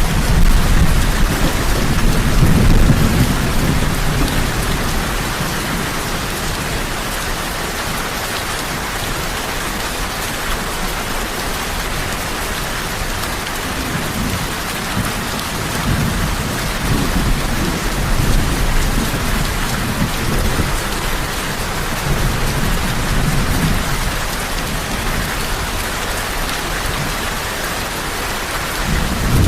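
Heavy rain falling steadily, with low rolls of thunder rising and fading: in the first few seconds, again through the middle, and once more at the end.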